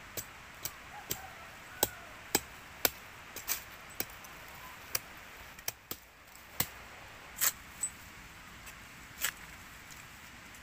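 A run of short, sharp knocks or clicks at irregular spacing, roughly one or two a second, with a longer pause near the end.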